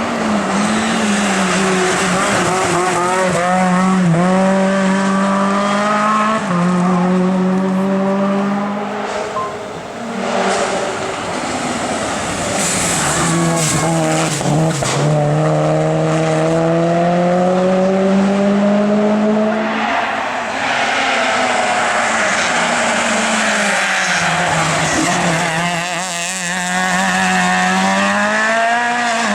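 Race car engine at full throttle, its pitch climbing and dropping sharply again and again as it shifts up through the gears. About twenty seconds in, the pitch falls away as it lifts off, then it accelerates hard again near the end.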